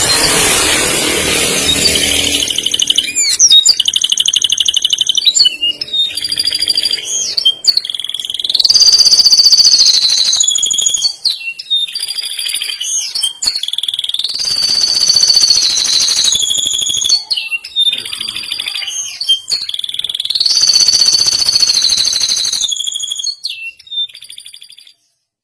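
Canary singing a long, high-pitched song of fast rolling trills and held whistled notes, phrase after phrase with short breaks, opening with a harsher rasping passage; the song stops just before the end.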